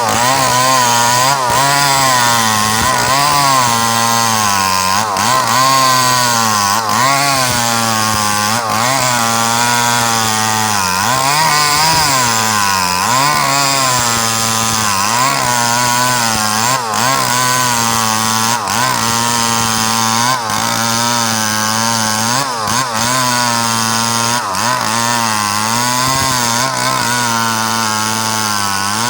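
Small two-stroke Stihl chainsaw cutting a coconut palm trunk, running near full throttle with its pitch dipping and recovering every second or two as the chain bites into the wood and eases off.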